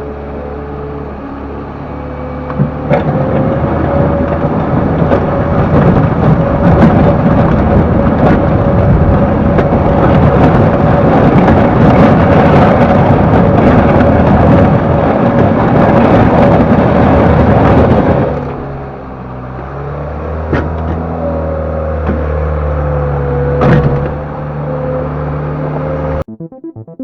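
Lonking CDM307 skid steer loader's diesel engine and hydraulics: the engine idles, is throttled up about three seconds in and works loud under load with a steady whine for about fifteen seconds, then drops back to a lower speed. Two sharp knocks come in the quieter stretch.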